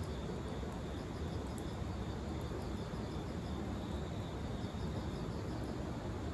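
Insects chirping in short, evenly repeated pulses over a steady low rumble.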